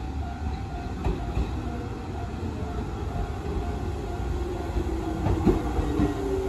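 Electric commuter train of the Izuhakone Railway Sunzu Line pulling into the station: a steady rumble that grows slightly louder as it nears, with a few sharp clacks of the wheels over rail joints.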